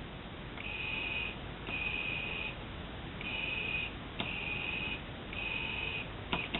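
Single-channel model airplane radio control equipment being keyed: a high-pitched steady tone switched on and off in five bursts of under a second each, with a few sharp clicks, one about two-thirds through and a double click near the end.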